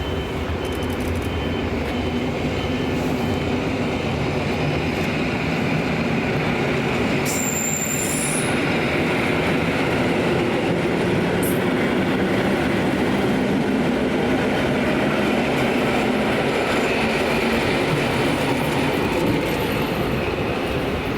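Passenger train running on the rails: a steady rumble of wheels and running gear with faint wheel squeal, growing a little louder over the first few seconds.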